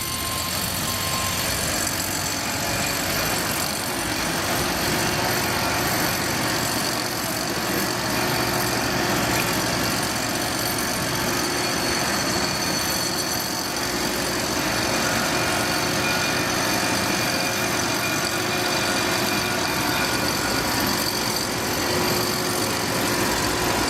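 An engine running steadily at idle, with a constant hum and a few steady tones, no revving.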